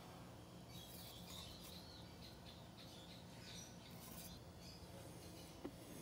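Faint bird chirping over a quiet outdoor background hum, with one soft click near the end.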